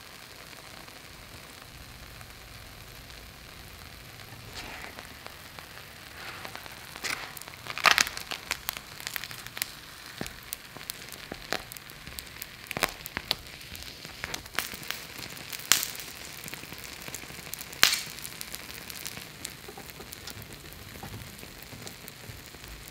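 Rice-paper pizza sizzling in an oiled pan, a steady faint hiss with sharp crisp crackles and snaps, loudest and most frequent in the middle of the stretch as the crisped rice paper is handled and folded over.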